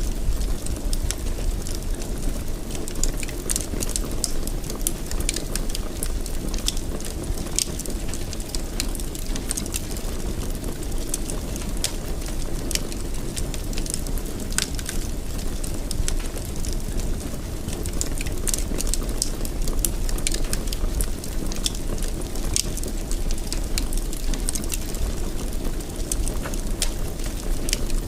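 Wood fire burning in a fireplace: a steady low rush of flames with frequent small, sharp crackles and pops.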